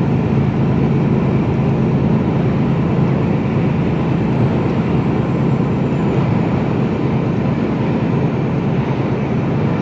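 Steady drone of a Mercedes-Benz Actros lorry's engine and road noise, heard from inside the cab on the move. A faint high whine slowly falls in pitch over the first six seconds or so.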